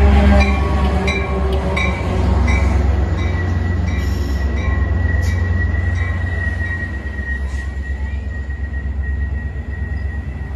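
Metra commuter train passing: the diesel locomotive's engine drones by in the first second or two, then the bi-level passenger cars roll past with a steady low rumble, wheel clicks over the rail joints and a high, steady wheel squeal through the middle, the sound slowly fading.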